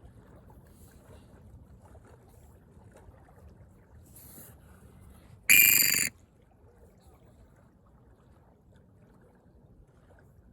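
A western grebe gives one loud, shrill, whistle-like call lasting about half a second, about halfway through, over faint background noise.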